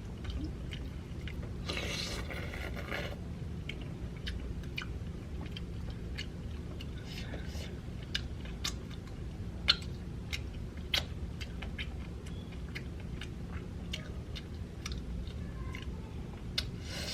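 Close-up chewing and biting of a shrimp egg roll: wet mouth sounds with scattered small crunches and clicks, over a steady low hum.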